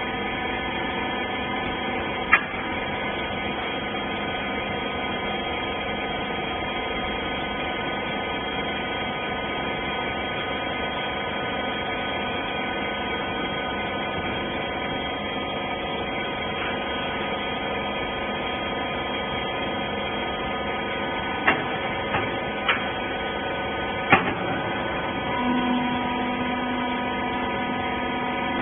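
Hydraulic wiper rag baler running: a steady motor-and-pump hum with several even tones. There is a single sharp knock a couple of seconds in and a quick run of four knocks later on, and a further steady low tone joins near the end.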